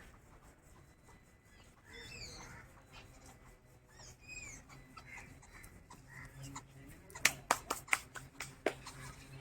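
Birds chirping in a few short, curving calls, then a quick run of about eight sharp clicks, the loudest sounds, about seven seconds in.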